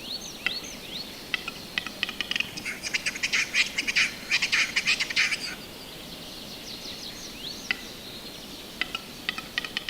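Bird calls, plausibly a western capercaillie's display song: scattered sharp clicks and short chirps that crowd into a dense run of clicks from about two and a half seconds in, lasting about three seconds, then thin out again to sparse clicks.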